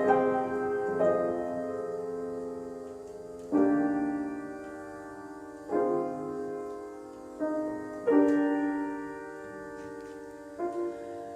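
Soft solo piano music: slow chords struck every two seconds or so, each left to ring and fade.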